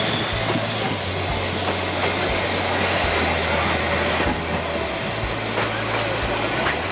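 Metre-gauge passenger coaches of the Harz narrow-gauge railway rolling slowly past, with steady wheel-on-rail rumble, a few clicks over the rail joints and a faint steady high wheel squeal.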